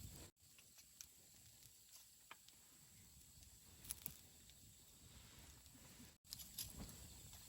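Wood campfire burning with faint crackling and scattered sharp pops, a few louder ones about four seconds in. The sound cuts out completely for an instant twice.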